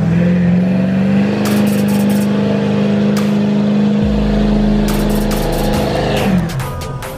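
Vehicle engine revved up and held at high, steady revs for about six seconds, then dropping off near the end.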